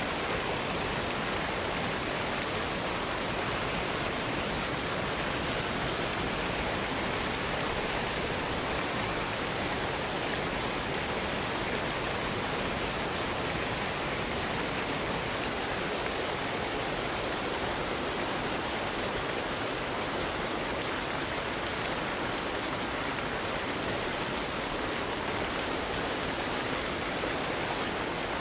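Waterfall: falling water rushing with a steady, unbroken hiss that never changes in level.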